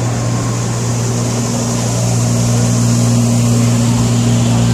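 Stopped train's engine running with a loud, steady low hum that grows slowly louder.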